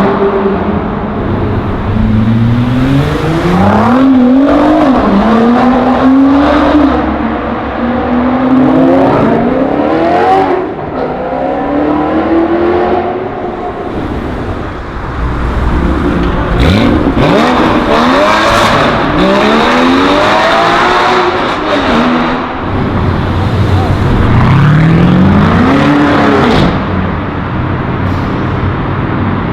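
Sports car engines accelerating hard and revving. The pitch climbs and drops again several times over as the engines rev and shift, over a low exhaust rumble.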